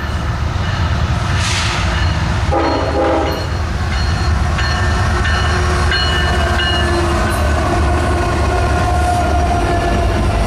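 Diesel freight locomotives (GE ES44ACs with an EMD SD70ACe) running by with a steady low engine rumble and rail noise. A short horn note sounds about two and a half seconds in.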